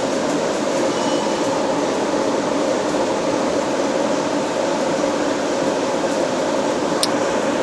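Steady whirring machine hum, like a fan running, unchanged throughout, with one short click about seven seconds in.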